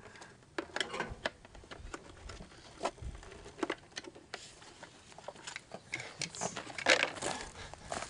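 Scattered clicks, knocks and rustles of hands-on handling, irregular and without rhythm, with a louder clatter about seven seconds in; the engine is not running.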